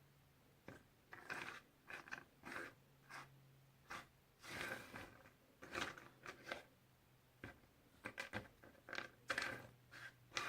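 Puzzle pieces being handled and fitted: an irregular run of small clicks, taps and short rustling scrapes, with a few louder clusters, over a faint steady hum.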